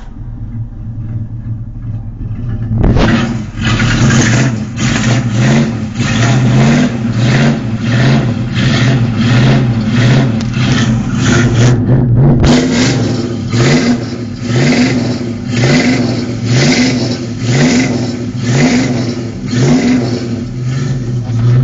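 Ford Mustang's 4.7-litre (289 cubic inch) V8 through a custom twin-exit block-back exhaust, idling for about three seconds and then blipped again and again, about two quick revs a second. The revving pauses for a moment about halfway through, then carries on.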